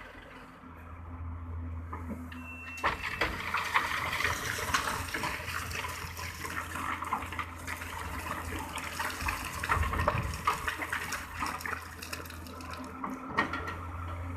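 Sand and gravel pouring into a truck bed: a rushing hiss full of small clicks and rattles that builds about three seconds in, over a low steady engine hum.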